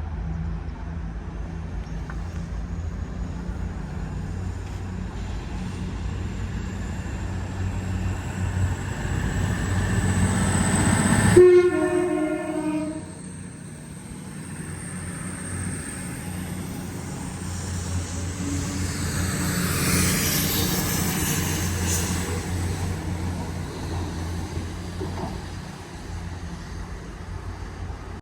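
Diesel train running through the station, its engine rumble building until about eleven seconds in, when its two-tone horn sounds briefly. The rumble and rail noise then go on as the train passes.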